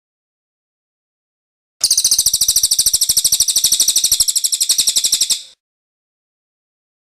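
Cililin bird singing its rolling trill (ngerol): one rapid, even run of high notes, well over ten a second, lasting nearly four seconds. It starts about two seconds in and stops abruptly.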